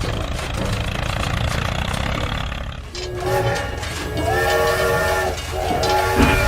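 A steady low rumble like a running engine, then about three seconds in a train horn sounds in two long blasts with a short break between them.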